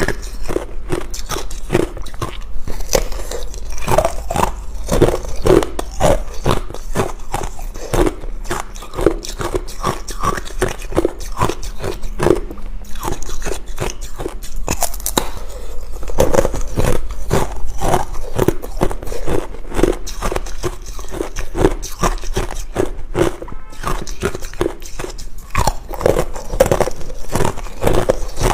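Ice being bitten and chewed close to the microphone: a dense, irregular run of crunches and cracks.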